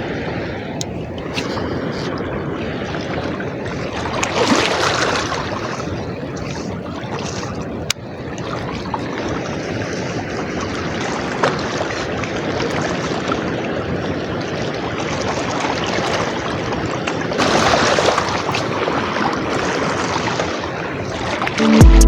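Floodwater rushing through a river spillway, a steady wash of water noise that swells louder about four seconds in and again near the end. Electronic music starts right at the close.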